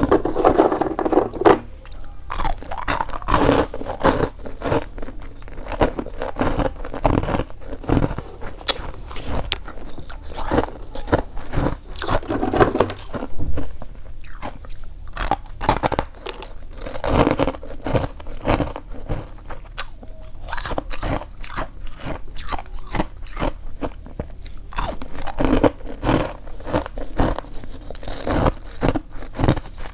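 Close-up biting and chewing of freezer frost, a dense run of sharp crunches with a few heavier bursts of crunching every few seconds.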